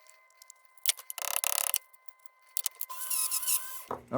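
Small metal lantern parts clinking and rattling as they are handled, in short bursts about a second in and again near the end.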